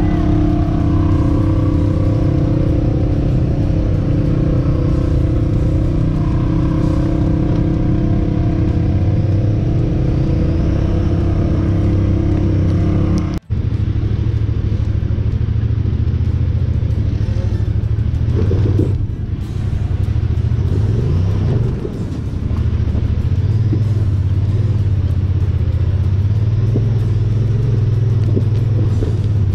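Honda Pioneer 1000 side-by-side's engine running steadily under way on the trail. About halfway through it cuts off for an instant and comes back lower and rougher, easing off briefly twice soon after.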